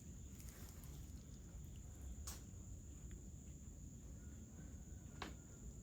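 Crickets chirring in a steady high-pitched drone, with two sharp clicks about two and five seconds in.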